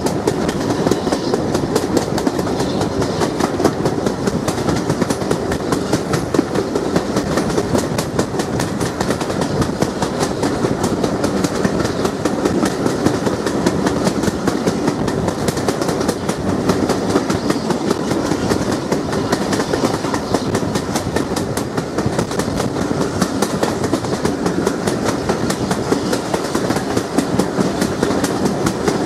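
Passenger train running at speed, heard from an open carriage window: a loud, steady rush of wheels on the rails and wind, unbroken throughout.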